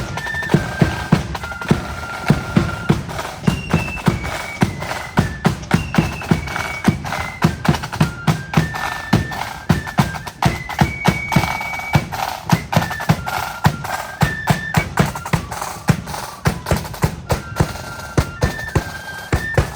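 Marching flute band playing a tune: flutes carry a melody of held notes over a steady beat of bass drum and snare drums.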